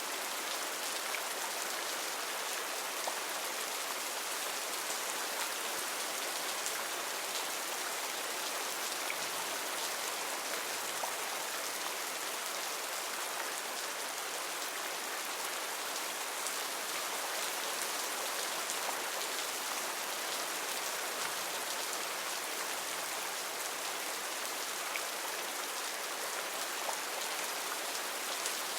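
Heavy rain falling steadily on foliage, a dense even hiss with scattered individual drop ticks.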